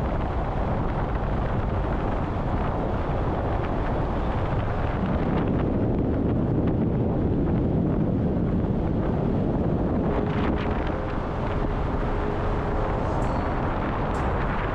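Steady wind noise buffeting the microphone over a continuous low rumble.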